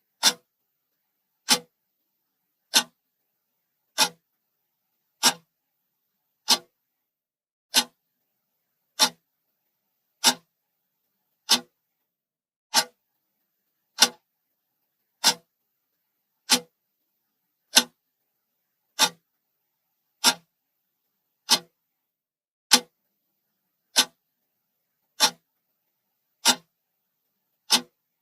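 Clock ticking: single sharp ticks at an even pace of about one every 1.25 seconds, with silence between them.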